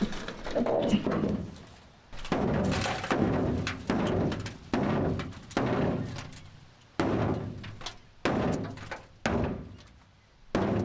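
A series of heavy thunks at uneven intervals, each ringing briefly and dying away.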